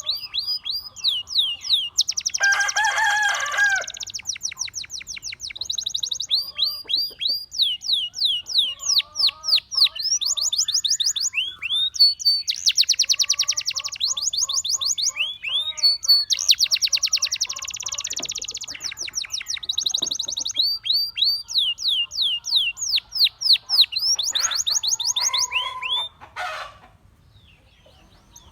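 Gloster canary singing a long, loud song of rapid trills and quickly repeated down-sweeping whistled notes, with a few lower notes mixed in. The song breaks off shortly before the end.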